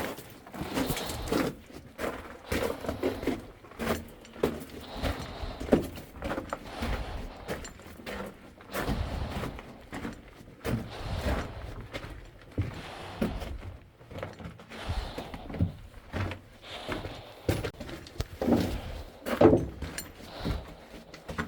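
Footsteps on the rock and gravel floor of a mine drift, an uneven run of crunches and knocks about one or two a second, with light rattling of carried gear.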